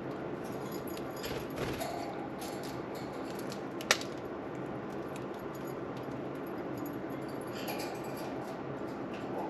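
Small water fountain running steadily, with faint budgie chirps and small ticks and one sharp click about four seconds in.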